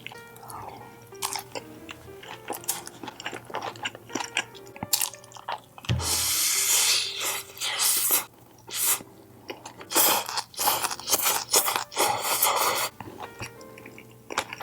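Close-miked chewing and crunching of food, with many small wet clicks and two loud crunchy stretches, about six seconds in and again from about ten to thirteen seconds, over light background music.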